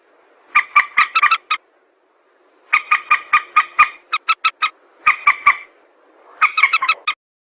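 Lure recording of a mandar (a rail) calling: rapid series of short, sharp, nasal notes, about six or seven a second, in bursts of a second or so separated by short pauses, ending about seven seconds in.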